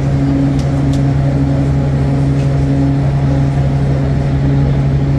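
A motor vehicle's engine running steadily: a loud, even, deep hum with a higher tone that comes and goes, and a couple of faint clicks about a second in.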